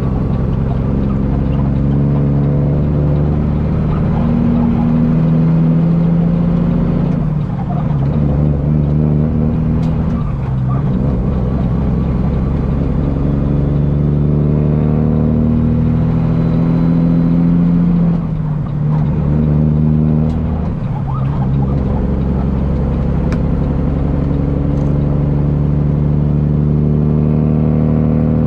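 Semi truck's diesel engine pulling under load. The engine note climbs, then drops back at each gear change, about four times, as the truck works up through its gears.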